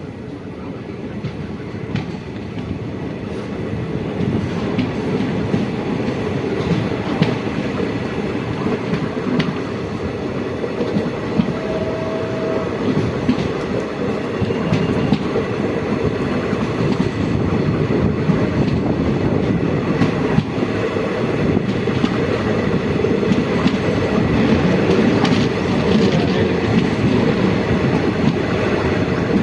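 A train running on the track, its wheels clacking over the rail joints, growing louder over the first half and then running on steadily.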